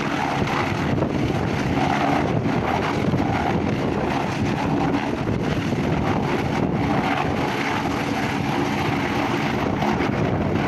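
Helicopter running on a ship's deck just before take-off, its engine and rotor making a loud, steady noise.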